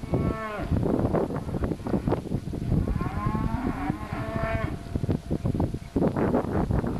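Cattle mooing: a short falling call at the start and a longer call about three seconds in, over a run of knocks and thumps.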